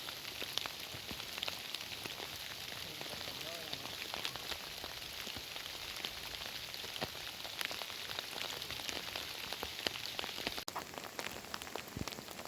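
Heavy rain falling steadily, with many separate drops hitting close by as sharp ticks over the even hiss. The sound cuts out for an instant near the end.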